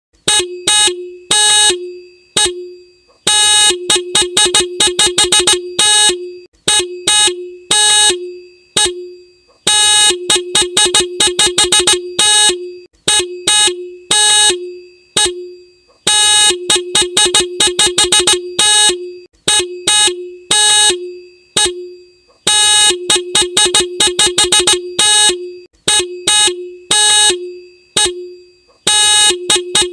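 Motorcycle horn honking in repeated groups, each a run of quick short beeps mixed with a few longer blasts, with short pauses between groups.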